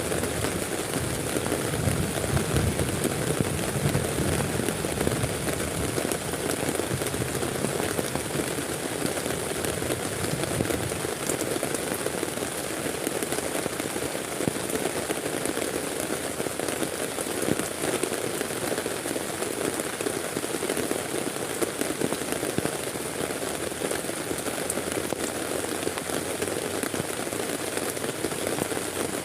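Heavy rain falling steadily, a dense rush of drops striking a surface.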